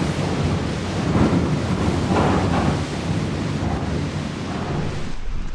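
Storm wind gusting hard against the microphone, a loud surging rumble with rain mixed in.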